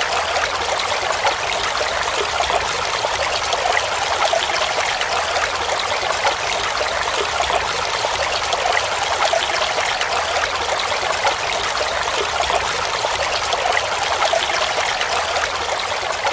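Mountain valley stream flowing steadily over rocks, an even rushing of water.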